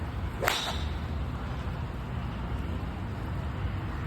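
A golf club striking a ball: one sharp crack about half a second in, with a brief ringing tail, over a steady low rumble.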